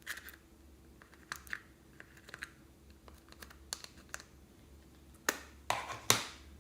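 Slime being handled close to the microphone: scattered sticky clicks and crackles, with three louder pops near the end.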